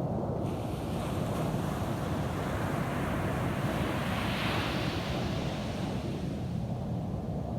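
Ocean waves on a beach: a steady low rumble of surf, with one wave breaking and washing in, its hiss swelling to a peak about halfway through and fading near the end.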